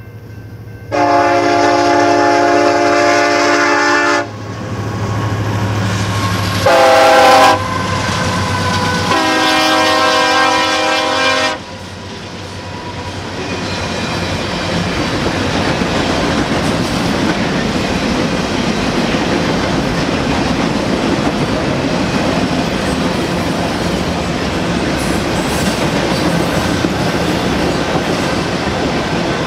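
Union Pacific freight locomotive's air horn sounding a long blast, a short one and another long one, then the rumble and wheel clatter of an autorack freight train rolling past, slowly growing louder.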